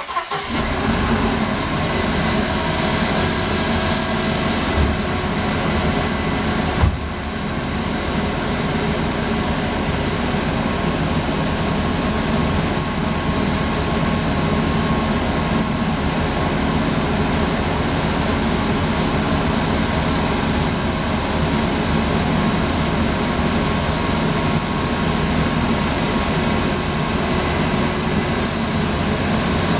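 Mercedes-Benz W124's M111 four-cylinder petrol engine firing up suddenly and settling into a steady idle. It runs a little higher in the first few seconds, with two brief thumps about five and seven seconds in.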